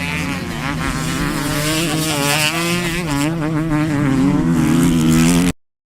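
A motocross bike's engine running and revving, its pitch rising and falling and growing louder. It cuts off suddenly near the end.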